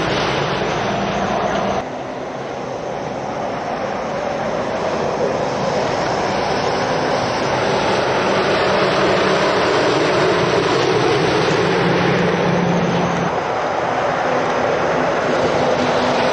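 Heavy lorries going past on a road, a steady loud mix of diesel engine and tyre noise that changes abruptly about two seconds in and again near the end.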